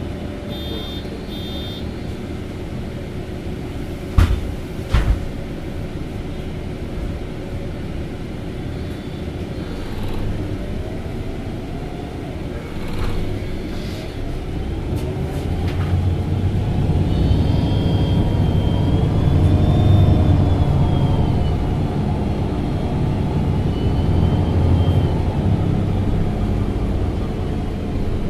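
MAN NG273T4 LPG-fuelled articulated bus idling, with short beeps near the start and two thuds about four seconds in. From about halfway it pulls away: the engine note grows louder and a whine rises and falls as the bus accelerates through its gears.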